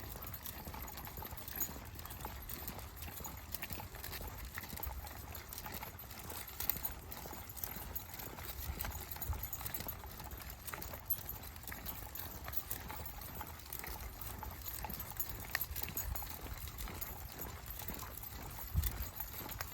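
Footsteps of a person and a pack of dogs walking on a trail: a continuous run of irregular light steps and knocks over a low rumble.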